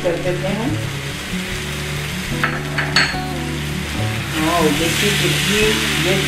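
Arbi (taro root) masala sizzling in a non-stick frying pan while a spatula stirs it through, with a few short scrapes of the spatula against the pan about two and a half to three seconds in. The sizzle grows stronger in the second half.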